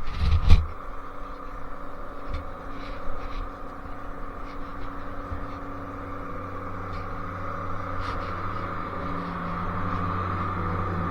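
Sherco 50cc two-stroke engine with a KRM expansion exhaust and Polini 17.5 carburettor running under way at a fairly steady note, growing a little louder near the end. A couple of loud knocks come in the first second.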